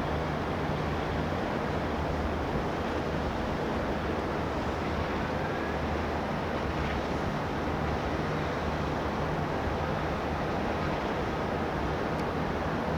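A ship's engine droning low and steady under wind and water noise. The drone fades somewhat in the middle and comes back stronger near the end.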